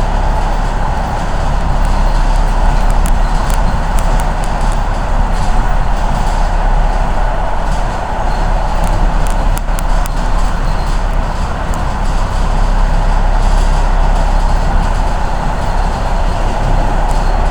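Suburban electric train running between stations, heard from inside the carriage: a steady loud rumble and hum of wheels and motors, with scattered light clicks.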